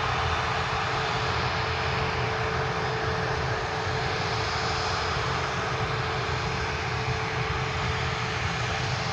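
Airliner engines running steadily: a constant drone with one steady tone in it, neither rising nor falling.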